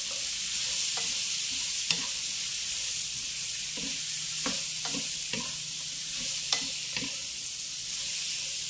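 Raw green mango strips frying with spices in a pan, a steady sizzle, while being stirred, the utensil knocking and scraping against the pan at irregular moments.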